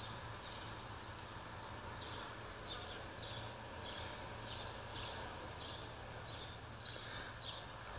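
A small bird chirping over and over: short, high chirps, each dropping slightly, about two a second, over a faint low rumble.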